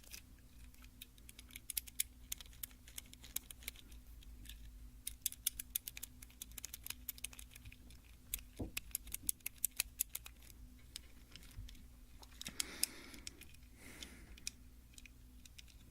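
Toy car tapped and handled close to the microphone: quick, irregular runs of small clicks and taps, with a soft brushing sound about twelve seconds in.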